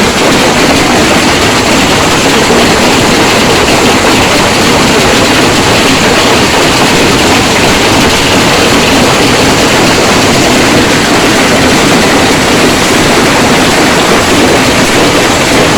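Hailstorm: dense, loud, steady noise of hailstones pelting down, with no letup.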